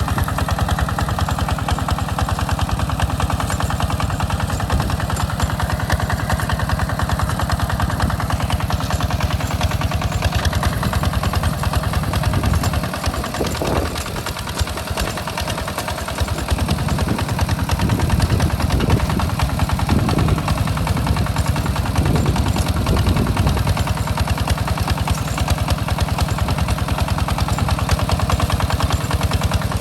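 Single-cylinder diesel engine of a two-wheel hand tractor running steadily while plowing a rice paddy, a fast even chug of firing pulses. About halfway through, the note dips and runs unevenly for several seconds, as the load on the plow changes.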